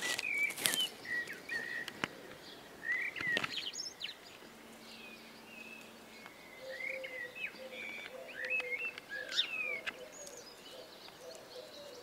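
Small forest birds chirping and calling in short rising and falling notes, scattered through the whole stretch. A few sharp rustling clicks near the start and about three seconds in.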